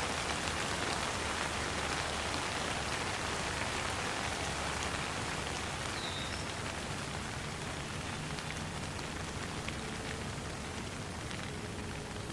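Steady rain falling, an even hiss with scattered individual drop ticks. A brief high chirp sounds about halfway through.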